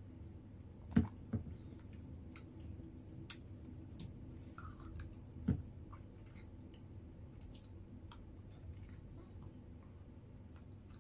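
A person chewing food close to the microphone, with small mouth clicks throughout. Three sharper knocks stand out: two close together about a second in, and one about halfway through.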